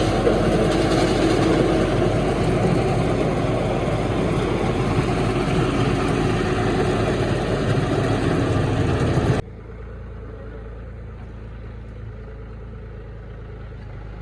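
Silage harvester running loud and steady, its engine hum under the dense noise of the machine chopping the crop into small pieces. About nine seconds in the sound cuts off suddenly to a much quieter steady engine hum.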